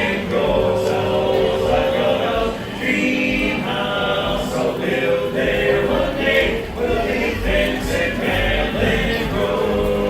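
A cappella vocal group singing in close harmony.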